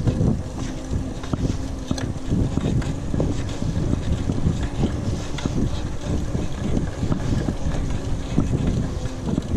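Mountain bike riding over a rough, overgrown dirt trail: wind rumbling on the microphone, with irregular knocks and rattles from the bike over the bumps.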